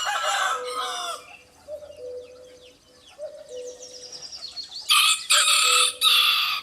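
Rooster crowing twice: once at the start and again near the end in three loud parts. Faint chirping can be heard in between.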